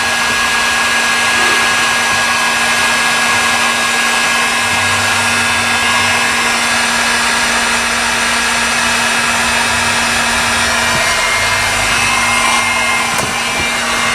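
Heat gun blowing steadily, a constant rushing hiss with a steady whine, used to warm sound-deadening mat so it presses into place.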